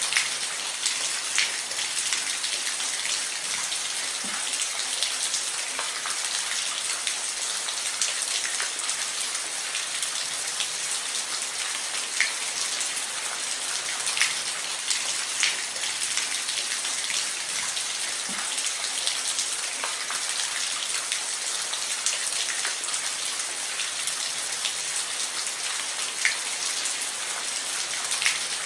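Steady rain falling on a roof: an even hiss with many sharp individual drop ticks scattered through it.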